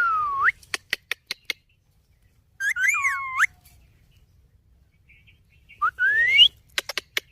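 Indian ringneck parakeet giving three short gliding whistles, spaced a few seconds apart. Quick runs of sharp clicks follow the first and the last whistle.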